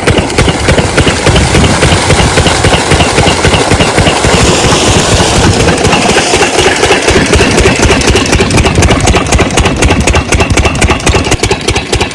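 12 hp diesel engine of an irrigation water pump set running steadily with a rapid, even firing knock. A hiss rises over it for a couple of seconds about four seconds in.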